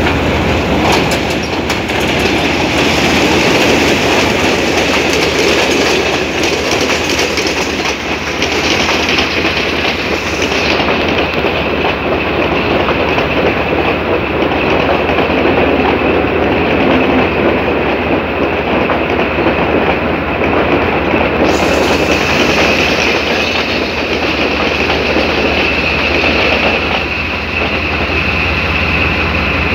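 Sri Lanka Railways Class M4 diesel locomotive and its passenger carriages passing close by, wheels clattering over the rail joints, with a steady high-pitched squeal over the rumble.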